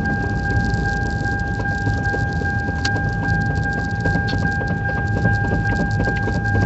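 Interior road noise of a vehicle driving on snowy roads: a steady low rumble from engine and tyres, with a constant high-pitched whine and scattered light ticks and rattles.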